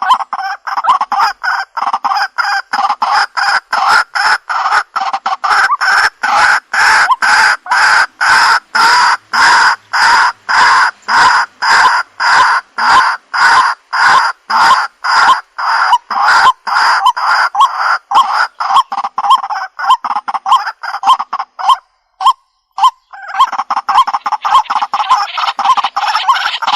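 White-breasted waterhen (jal murgi) calling: a long, loud series of repeated notes at about two a second, breaking off briefly near the end and then starting again.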